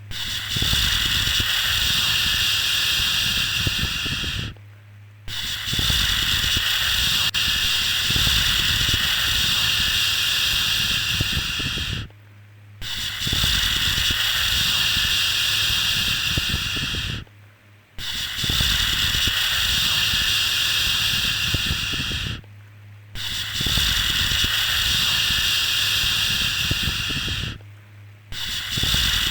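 Repeated long shushing 'shhh' sounds for lulling a baby to sleep, each held for about four to seven seconds and separated by short half-second pauses, with a low hum beneath.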